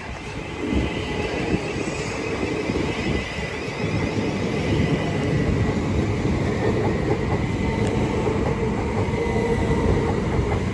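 Pair of Southeastern Class 375 Electrostar electric multiple units passing through the station without stopping: a steady rumble of wheels on rail with a high whine held throughout.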